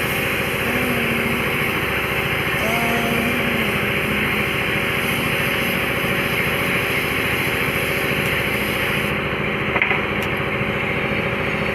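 Car engine idling steadily, a constant even running sound.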